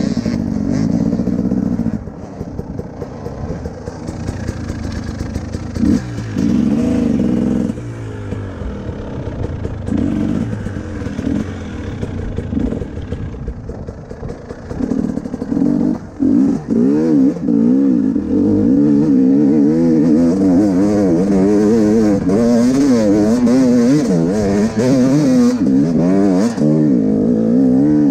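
KTM 300 TPI two-stroke enduro motorcycle engine being ridden, the revs rising and falling over a rocky trail. The revs drop back for stretches in the first half, then run high and wavering under load from about 16 seconds in as the bike heads up a steep hill.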